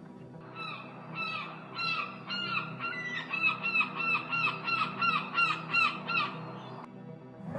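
A bird calling over and over in short honking notes, several a second, each note sliding slightly down in pitch, over a steady low hum.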